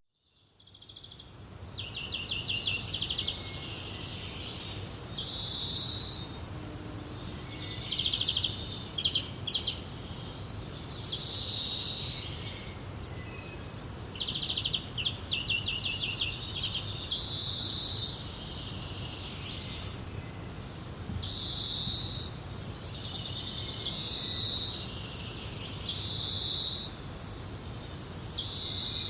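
Birds calling repeatedly: short high calls and rapid trills every few seconds, over a steady low rumble.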